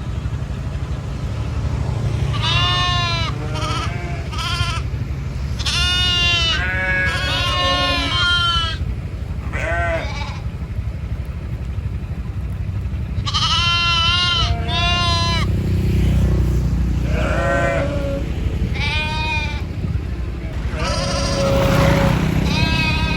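Livestock bleating: about a dozen quavering calls, each under a second, some overlapping as if from several animals, over a steady low rumble.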